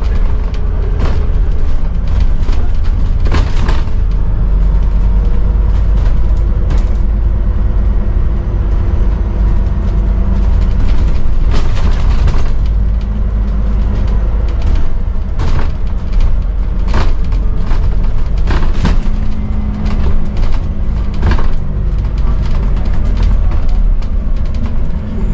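Scania N280UD double-decker bus on the move, heard from on board: a steady heavy low rumble from the engine and drivetrain, whose pitch shifts a few times, with frequent rattles and knocks from the body.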